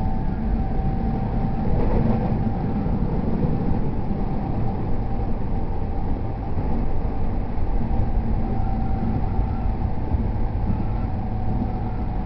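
Running sound inside a JR East E231 series commuter train cruising between stations: a steady rumble of wheels on the rails with a faint steady tone above it.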